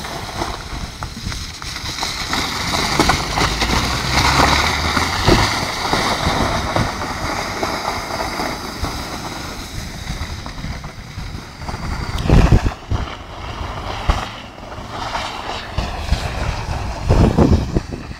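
Jeep Cherokee's engine running as it is driven in circles on a loose gravel surface, heard from a distance. Wind buffets the microphone throughout, with loud gusts about twelve seconds in and near the end.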